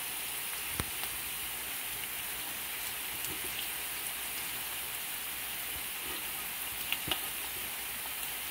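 Steady sizzling of shrimp, egg and vegetables frying in a hot wok as cold cooked rice is added. There is a light click about a second in and two more about seven seconds in.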